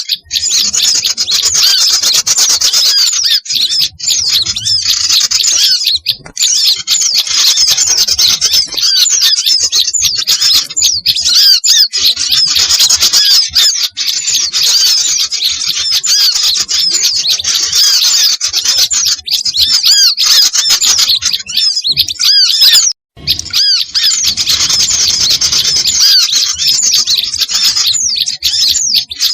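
Dense chatter of many small songbirds calling over one another in rapid, high chirps and squawks, with sooty-headed bulbuls among them. It is a mixed bird-lure track used to draw small birds in. The sound cuts out for a moment about three-quarters of the way through.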